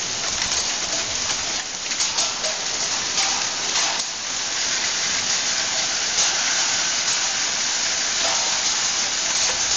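Hail and rain pelting down in a dense, steady hiss, dotted with sharp ticks of single hailstones striking, most thickly in the first few seconds.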